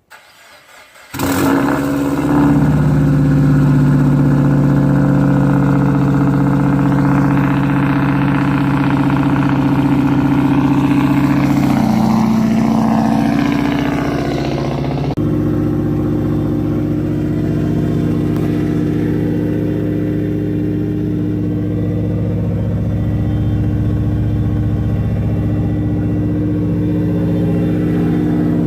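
Straight-piped 2013 Subaru WRX's turbocharged flat-four exhaust starting loud about a second in and running at a steady engine speed, with an abrupt change in its tone about halfway through.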